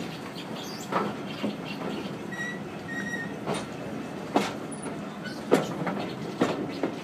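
Railway carriage rolling along the track as the train draws into a station: a steady rumble with irregular wheel clunks and knocks over rail joints, and two brief high squeaks a little after two and three seconds in.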